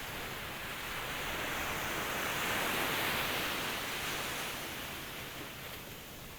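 Ocean wave washing in: a hiss of surf that swells to a peak about halfway through and then ebbs away.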